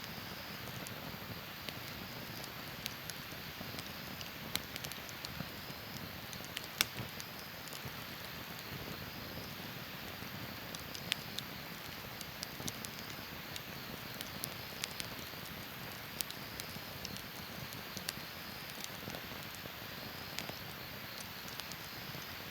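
Wood fire burning in a fire pit, crackling with scattered sharp pops over a steady soft hiss; the loudest pop comes about seven seconds in.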